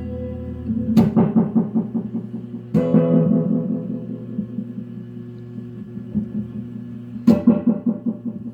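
Guitar played through a restored Ecco-Fonic tube tape echo: three struck notes or chords, each trailed by quick repeating echoes that die away. The echo is dark and brooding.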